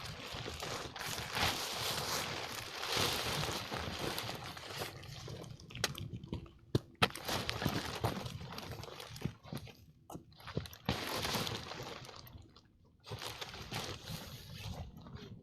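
Irregular rustling and crinkling handling noises, with two sharp clicks about seven seconds in.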